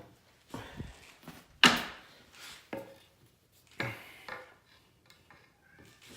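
A handful of knocks and scrapes of hard objects being handled and set down, the loudest about a second and a half in.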